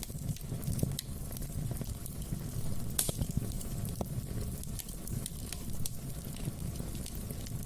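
Wood fire burning in a fireplace: a steady low rumble of flames with scattered sharp crackles and pops, and one louder crack about three seconds in.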